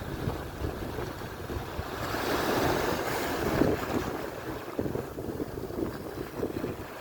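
Atlantic surf: a wave rushes in, swelling about two seconds in and washing away again, over a steady wash of sea. Wind buffets the microphone throughout.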